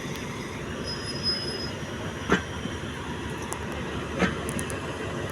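A locomotive-hauled train moving through a station: a steady rumble with two sharp knocks, about two seconds apart.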